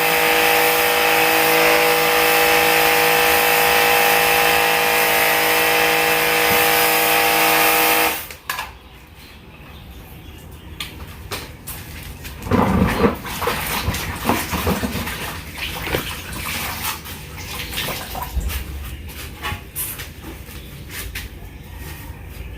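Portable electric pressure washer running with a steady motor whine and spray hiss, shutting off abruptly about eight seconds in. Scattered light knocks and clicks follow.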